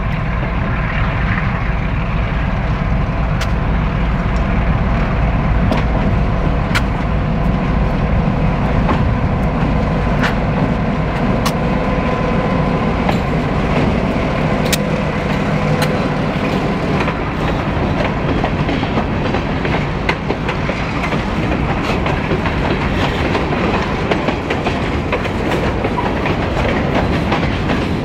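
Goose Lake Railway freight train passing close by: the lead diesel locomotives' engines run with a low rumble and a steady whine as they go past about halfway through, then the freight cars roll by with scattered clicks of the wheels over the rail joints.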